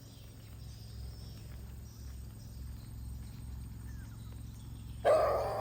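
Steady low outdoor rumble with faint high insect-like tones. Near the end, a loud wavering animal call with a clear pitch suddenly starts.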